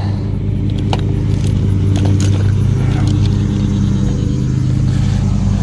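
A steady motor hum, like an engine running, with a few light clicks and rattles over it.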